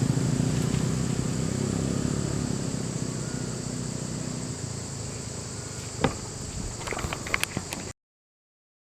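A vehicle engine running with a low, pulsing rumble that slowly fades, under a steady high drone of insects. A few sharp clicks come near the end, and then the sound cuts off abruptly.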